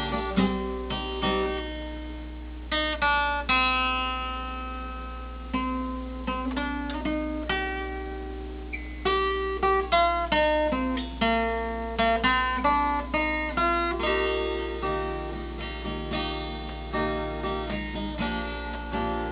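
Acoustic guitar playing an instrumental break, picked notes and strummed chords that ring and fade. A steady low hum runs under it.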